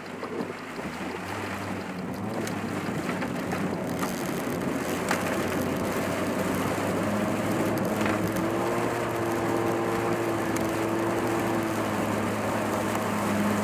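Car driving, heard inside the cabin: engine hum and tyre and road noise on a wet road in typhoon wind and rain, growing louder over the first few seconds as the car picks up speed, with steady engine tones from about halfway.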